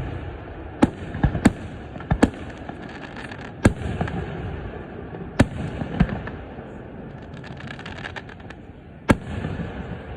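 Fireworks display: sharp aerial shell bursts at irregular intervals, several close together in the first few seconds and one near the end, over a steady low rumble of further bursts and echoes.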